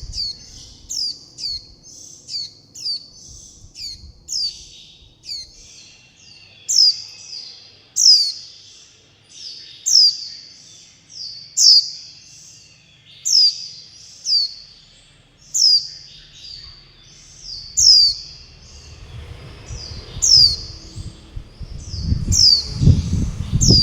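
Young white-eye fledgling giving high, short calls that slur downward, over and over: quick at first, then about one every second and a half. These are the calls a young white-eye uses to beg for food and call its parent and flock. A low rumble comes in near the end.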